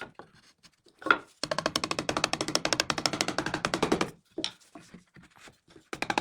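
Rapid, even tapping or knocking, about ten strikes a second, in two runs with a short break between. A single knock comes about a second in.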